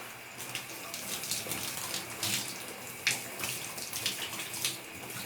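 Water sloshing and splashing in a wash tub, with plastic Lego pieces clicking and clattering against each other over and over as a bulk lot is washed by hand.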